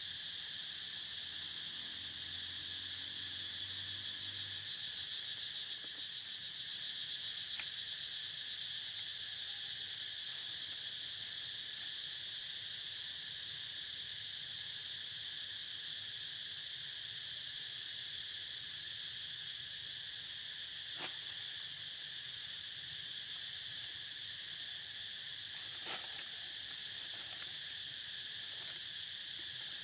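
Steady insect chorus, a continuous high drone with a weaker band beneath it, with a low hum under it for the first four seconds or so. A few sharp clicks break in, the loudest near the end.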